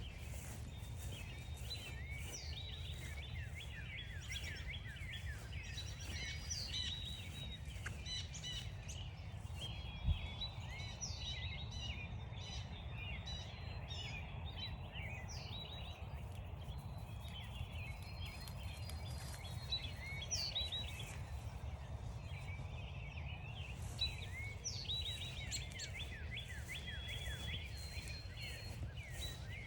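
Mixed songbirds chirping and trilling all through, over a steady low rumble. Footsteps crunch on frost-stiffened grass for the first twelve seconds or so and again near the end, and there is a single thump about ten seconds in.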